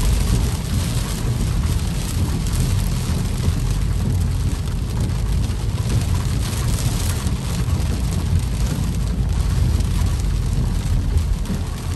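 Heavy rain drumming on a car's roof and windshield, heard from inside the moving car, over a steady low rumble.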